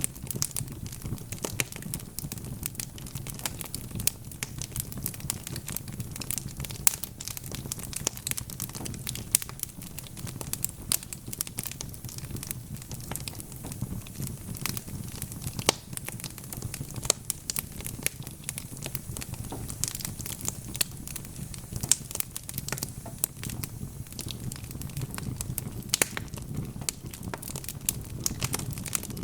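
Wood fire crackling steadily: many small sharp pops and snaps, scattered throughout, over a low steady rumble of the flames.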